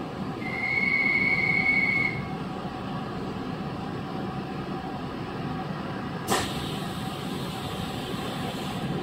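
Chiba New Town Railway 9100 series train (second batch, WN-drive car) running, heard from inside the car as a steady rumble. A high steady squeal lasts about two seconds near the start, and a single sharp click sounds about six seconds in.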